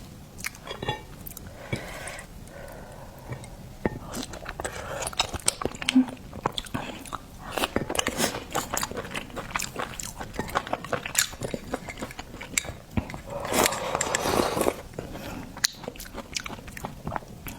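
Close-miked mukbang eating sounds: a person biting and chewing seafood, with many sharp, crunchy clicks and smacks.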